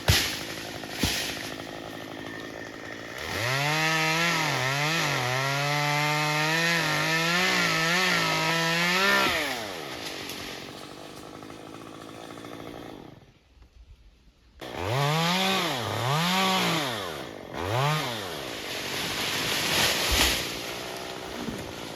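Chainsaw engine revving and holding under load while cutting oak branches for about six seconds, its pitch dipping as the chain bites, then dropping back. After a brief hush it gives three short blips of the throttle.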